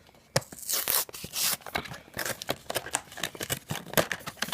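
Packaging of a blind-boxed vinyl mini figure being opened by hand: cardboard and a bag inside rustling, crinkling and tearing in irregular bursts, with sharp clicks.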